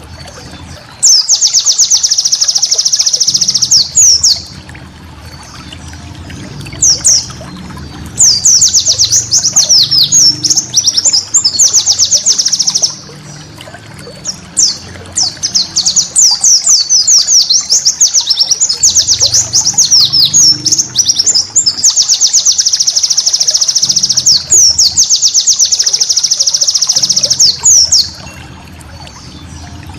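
Pleci (white-eye) singing its rapid, chattering ngeriwik song in long runs of fast high notes lasting several seconds, broken by short pauses and single calls. A faint low rumble sits underneath.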